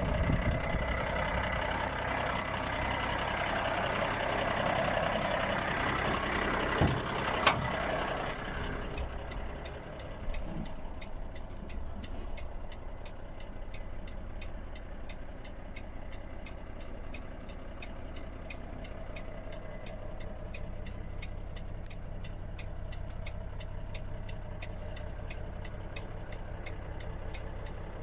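Volvo FH 460's 13-litre six-cylinder diesel engine idling steadily. It is louder for the first eight seconds or so, with a couple of sharp clicks near the end of that stretch, then goes on quieter with a regular light ticking.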